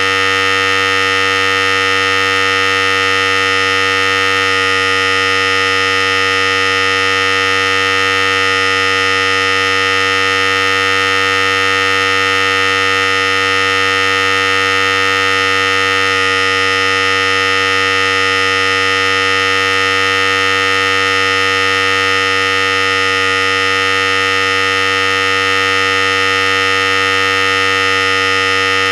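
Philips Series 5000 hair clipper running steadily: a constant, unchanging electric buzz.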